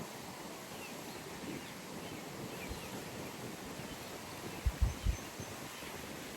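Early-morning pond ambience: a steady outdoor hiss with a few faint, short bird chirps. Three short low thumps come just under five seconds in.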